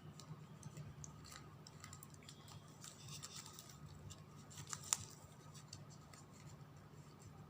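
Faint handling of satin ribbon being threaded through a folded slot and pulled: light rustling and small ticks, with a brief hiss around three seconds in and one sharp click just before five seconds. A low steady hum runs beneath.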